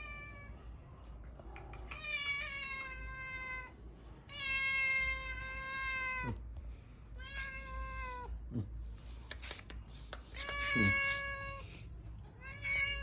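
A cat meowing repeatedly: four long, drawn-out meows, each held steady and then dropping sharply in pitch as it ends, with a fifth starting near the end.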